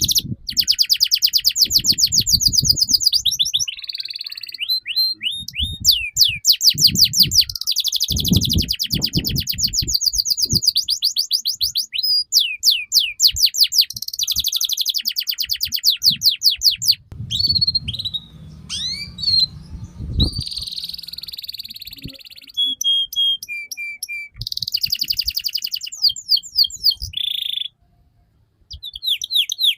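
Domestic canary in full song: long, fast trills of rapidly repeated high notes with short whistled glides between phrases, over dull low thumps. The song drops out briefly near the end.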